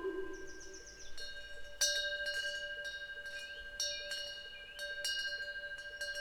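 Small metal temple wind bells (pungyeong) struck irregularly by their swinging clappers, several times, with clear ringing tones that carry on between strikes. Faint high chirps sound now and then.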